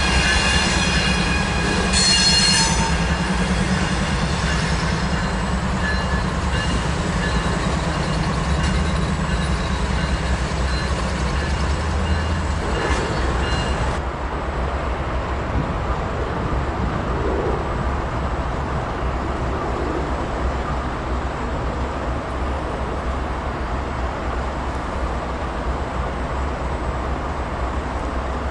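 Diesel train moving slowly, its steel wheels squealing high-pitched over a steady low engine rumble. The squeal stops suddenly about halfway through, leaving the rumble.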